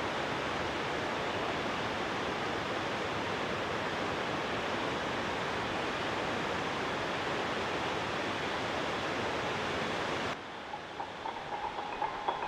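Steady, unbroken rushing water, cut off abruptly about ten seconds in. Soft chime-like music notes follow near the end.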